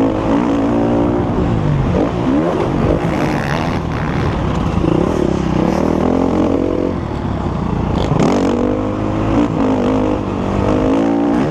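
Motocross bike engine revving under load, its pitch repeatedly climbing and dropping as the rider opens and closes the throttle and shifts.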